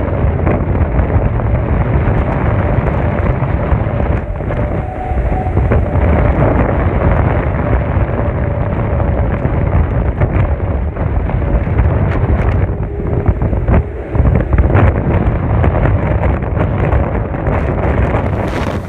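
Hurricane-force wind from Hurricane Irma buffeting the microphone: a loud, continuous deep rumble that swells and dips with the gusts.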